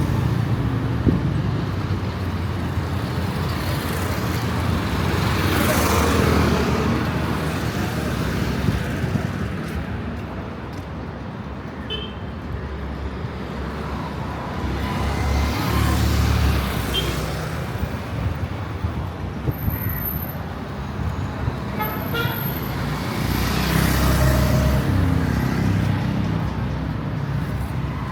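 Busy street traffic: vehicles pass close by in three slow swells, and several short horn toots sound through it.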